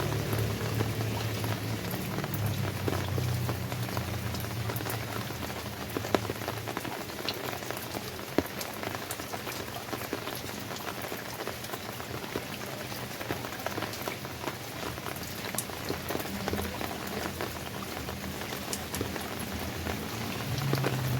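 Steady rain falling, with many individual drops ticking sharply on a hard surface. A low rumble sits underneath in the first few seconds and returns near the end.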